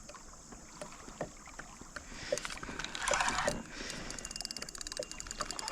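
Fishing reel being cranked with a fast, even ticking as a hooked snapping turtle is reeled in. A short rush of water, like a splash, comes about three seconds in.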